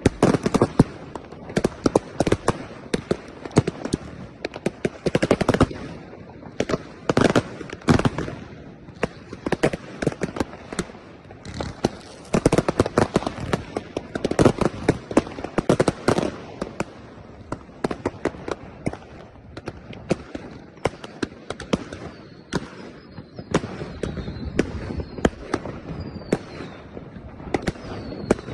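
Fireworks going off in dense, rapid volleys of sharp bangs and crackles, some stretches louder and busier than others. Near the end, short falling whistles repeat about once a second over the bangs.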